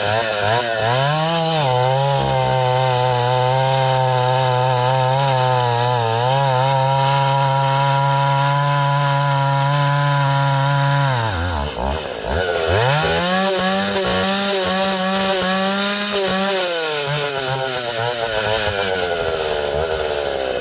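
Vintage Husqvarna L65 two-stroke chainsaw at full throttle cutting ash firewood. Its pitch holds steady under load for about ten seconds, drops sharply, then revs back up higher for a few seconds before winding down. The saw is revving up near the end of a tank of fuel, which the owner thinks may call for a small adjustment to the high-speed jet.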